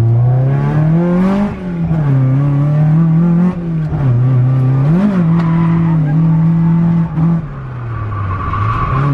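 Toyota AE86's BEAMS 3S-GE four-cylinder engine revving hard under drifting. It climbs in pitch and drops away sharply about a second and a half in, blips up again around three and a half and five seconds, cuts briefly past seven seconds, then sags and climbs once more near the end.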